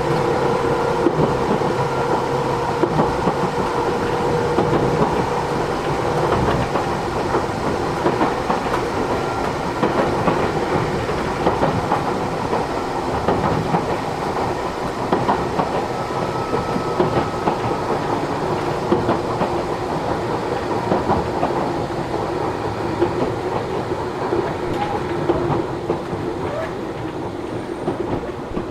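Matsumoto Electric Railway 3000 series electric train running, heard from inside the passenger car: steady rolling noise with frequent clicks and clacks from the wheels over the track. A faint steady tone fades out after the first few seconds, and the noise eases slightly toward the end.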